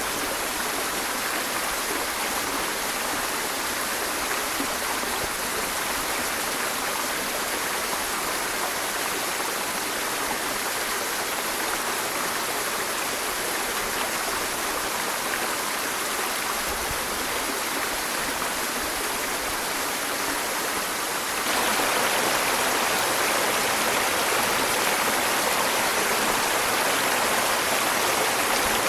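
Waterfall: a steady rush of falling water that suddenly gets louder and brighter about three-quarters of the way through.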